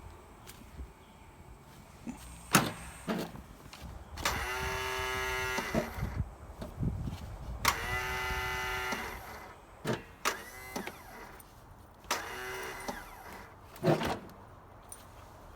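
Electric starter motor on a lawnmower whirring in three tries, the first about one and a half seconds long and the last about one second, with sharp clicks and knocks between them. The engine does not catch.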